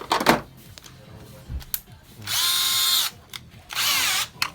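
Bosch 35 FC cordless drill-driver run free twice in short trigger pulls of under a second. Each time the motor whine spins up, holds and winds down. A loud knock comes just before, right at the start.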